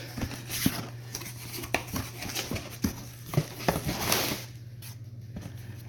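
Rummaging through an opened cardboard shipping box: rustling and scattered light clicks and knocks as the contents are handled. A steady low hum runs underneath.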